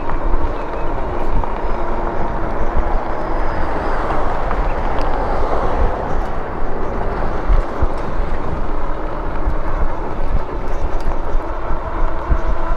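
Riding noise from a Lectric e-bike: wind rumbling on the microphone and the tyres rolling over a patched asphalt sidewalk, steady throughout, with a swell in the hiss around the middle.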